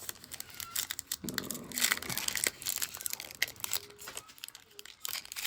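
Foil trading-card pack wrapper crinkling and tearing as it is handled: a run of irregular crackles.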